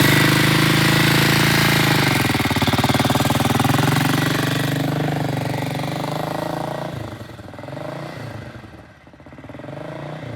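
Vintage British motorcycle engine pulling away in first gear, loud at first, then fading as it rides off with the revs rising and falling. The rider is staying in first, unable to find second gear.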